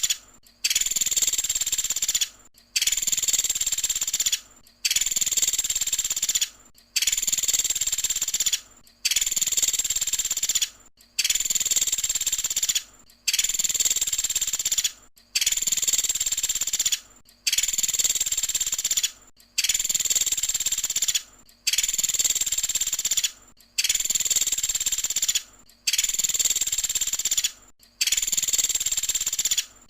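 Pelatuk sampit bird's 'tembakan' song: a high-pitched burst about a second and a half long, repeated identically roughly every two seconds as a looped masteran recording.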